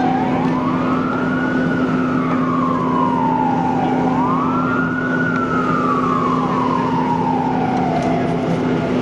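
Ambulance siren wailing as it arrives: a slow rise and fall, twice over, fading near the end, above a steady low hum.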